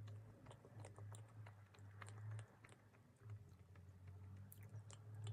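Close-miked chewing of a soft Kinder chocolate sponge bar with milk-cream filling: quiet wet mouth clicks and smacks, over a low steady hum.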